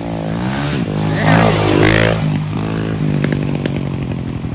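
125 cc Suzuki four-stroke dirt bike with an FMF exhaust being ridden, its engine revving up and down through the gears. It is loudest about one to two seconds in.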